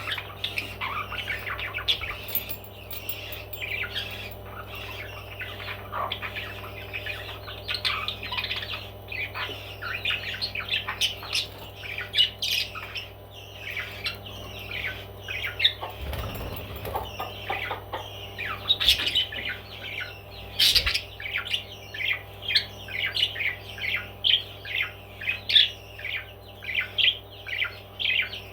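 Pet parrots chirping and squawking in a quick, constant chatter of short calls over a steady low hum, with a brief low rumble about halfway through.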